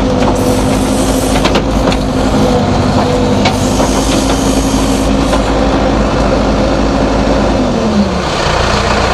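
Backhoe loader's diesel engine running steadily, with rattles and knocks from the machine. Near the end the engine note drops as it eases off.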